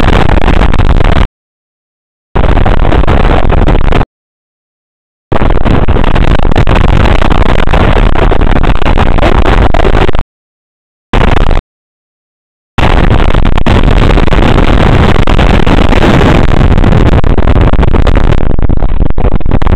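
Storm-force wind buffeting the microphone: loud, clipping wind noise heaviest in the low rumble. It cuts out abruptly to dead silence several times, for a second or so each time, then comes back just as loud.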